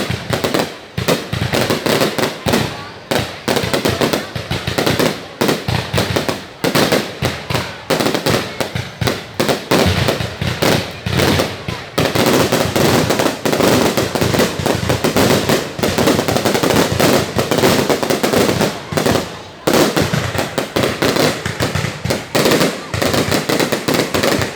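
Fireworks going off in a loud, dense run of bangs and crackles, many a second, with a few brief lulls.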